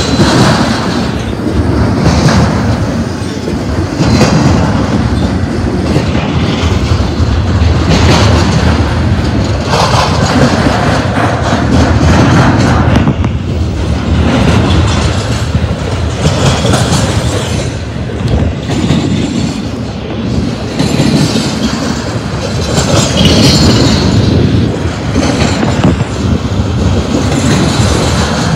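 Cars of an intermodal freight train rolling past: a loud, steady rumble and clatter of steel wheels on rail that pulses about every two seconds as the cars go by.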